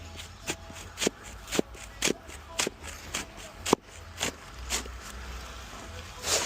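Footsteps in snow, an even walking pace of about two steps a second, with one louder step near the end.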